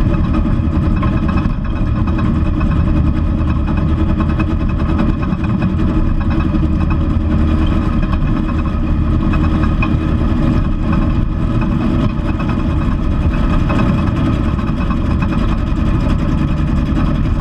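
Race car engine with four open intake trumpets running hard at a fairly steady pitch while driving on track, heard from inside the stripped, bare-metal cabin.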